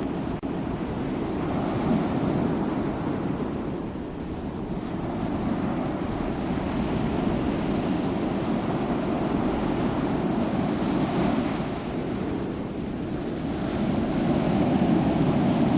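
Sea waves washing in as continuous surf, swelling and easing every few seconds and loudest near the end.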